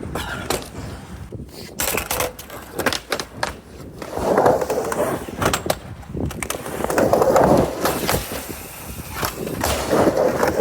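Skateboard riding a mini ramp: sharp clacks of the board and trucks striking, then the wheels rolling back and forth in swells as the rider pumps the transitions.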